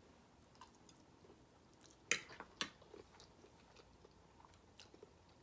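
Quiet close-up mouth sounds of chewing food: soft wet clicks, with a few louder clicks about two seconds in.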